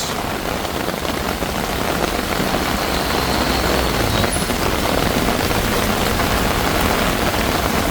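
Heavy rain pouring steadily on a flooded street, with the low rumble of a vehicle engine under it in the middle.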